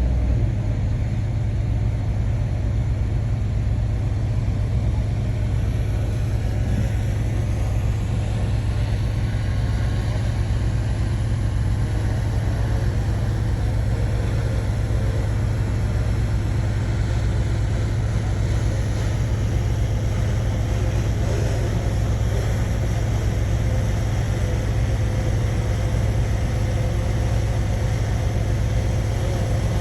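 Heavy diesel engine of an earthmoving machine running steadily, a low even rumble with no change in speed.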